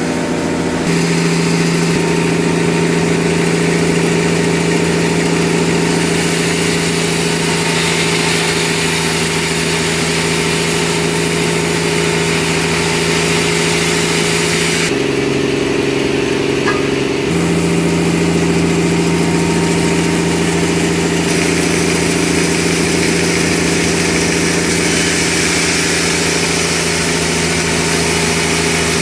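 A sawmill's engine running steadily, with a constant hum over a hissing noise. Its pitch changes abruptly about halfway through and returns a couple of seconds later.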